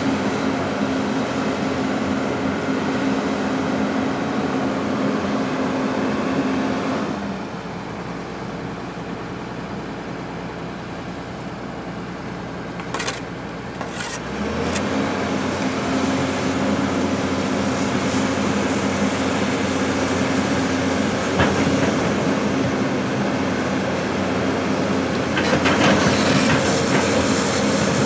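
Heavy earthmoving machinery running, with a steady diesel engine note. The engine drops back about a quarter of the way in, picks up again about halfway, and metallic clattering builds near the end.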